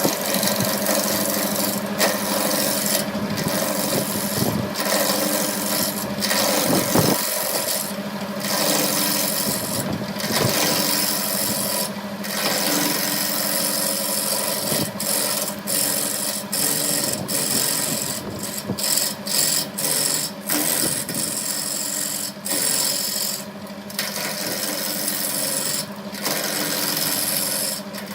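Wood lathe running with a steady motor hum while a turning tool scrapes and cuts the spinning wood, the rasping noise breaking off briefly again and again as the tool is lifted and set back on.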